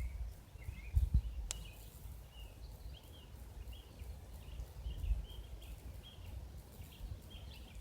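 Small birds chirping over and over above a low, uneven rumble from a distant police helicopter, with one sharp click about a second and a half in.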